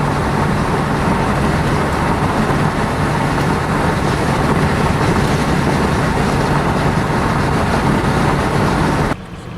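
Strong wind rushing over the camcorder microphone: a loud, steady roar with a low hum beneath it, which drops off suddenly near the end.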